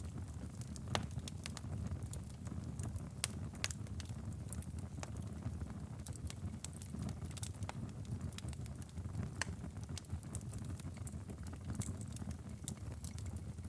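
Wood fire crackling in a stone fireplace, with irregular sharp pops over a steady low rumble.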